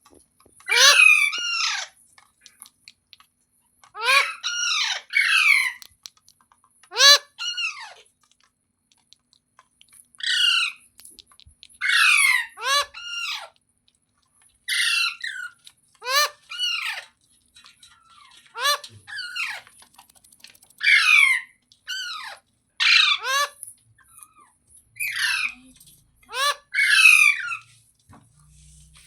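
Green parrot calling again and again: short, harsh falling calls with several overtones, in clusters of one to three every second or two.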